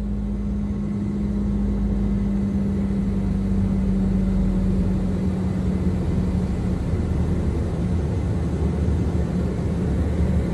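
Private jet's engines running with a steady drone, a strong hum and a low rumble. The level swells over the first couple of seconds, then holds.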